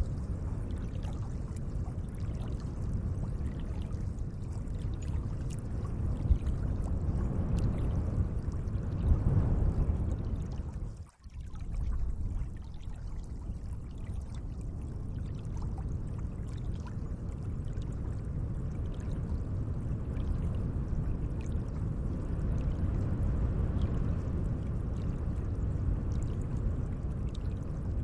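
Gentle lake water moving and lapping in a steady, even wash with faint small splashes. About eleven seconds in, the sound dips briefly almost to nothing, then carries on.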